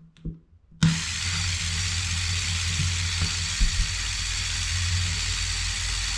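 LEGO Power Functions motor switched on about a second in, then running steadily to drive a model ride: a low hum under a wide hiss.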